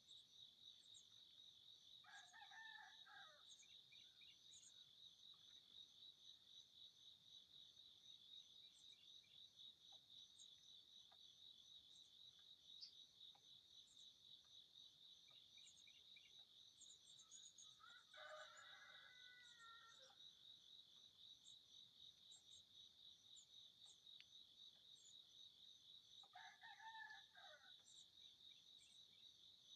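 A rooster crowing three times, each crow lasting a second or two and the middle one the longest, over a steady pulsing chorus of crickets.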